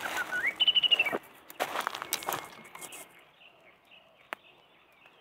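Birds chirping, with a quick run of high notes about half a second in and faint chirps later on. Rustling and crunching fill the first couple of seconds before it grows quieter.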